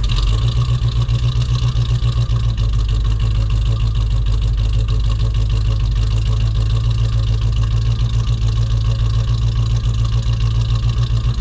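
Chevrolet S10's swapped-in 350 small-block V8 idling steadily with an even pulsing exhaust rhythm, running a bit rough after a cold start because it has not yet been fully tuned.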